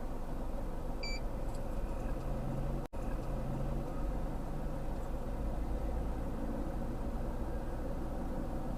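Steady low rumble of a car engine running, with a short electronic beep about a second in.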